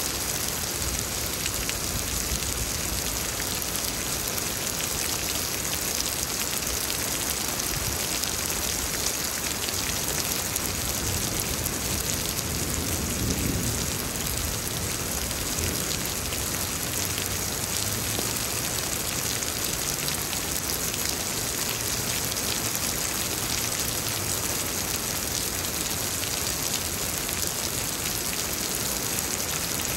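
Steady rain falling during a thunderstorm, an even hiss of rain with no distinct thunder.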